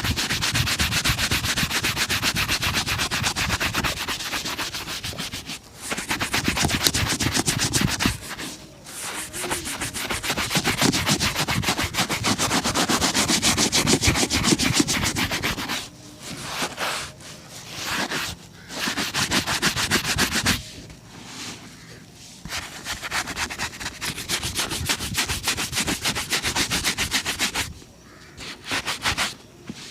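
Rapid back-and-forth brushing of a shoe during a shoe shine, in bouts of a few seconds broken by short pauses.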